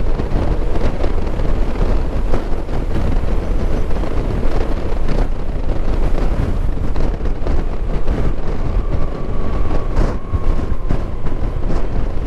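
Wind buffeting the microphone on a moving motorcycle, a loud steady rush with the engine and road noise underneath.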